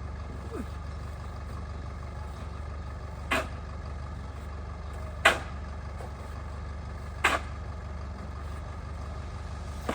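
A steady low engine-like hum with three sharp knocks about two seconds apart; the middle knock is the loudest.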